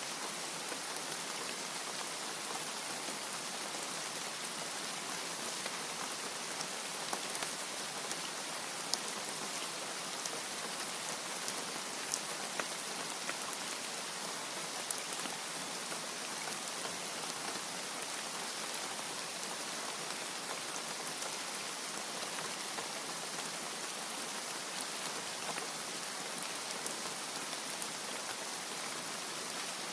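Steady rain falling: an even, dense hiss with scattered sharper ticks of single drops.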